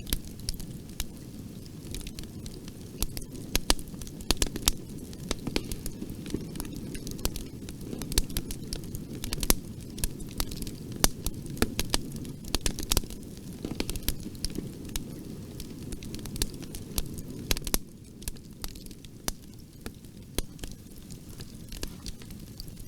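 Bonfire burning: a steady low rush of flame with frequent sharp crackles and pops from the burning wood. The low rush eases slightly about eighteen seconds in.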